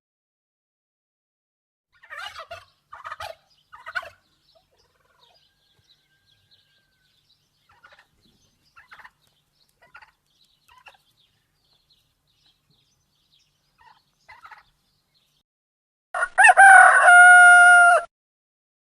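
Chickens: three short clucking calls, a few faint clucks, then one loud rooster crow of about two seconds near the end.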